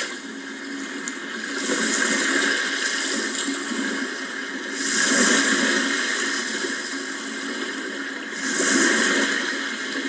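Sea waves washing in, a rush of water that swells louder three times, about every three to four seconds.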